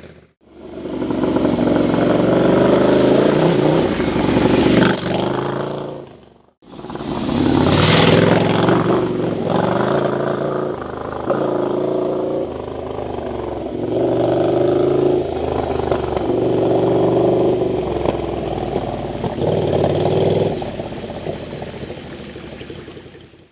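Ducati Scrambler's air-cooled L-twin engine revving and pulling through the gears, its pitch rising and falling with the throttle. It comes in three separate stretches, with sudden short breaks at about a third of a second and six and a half seconds in, and a hiss swells around eight seconds.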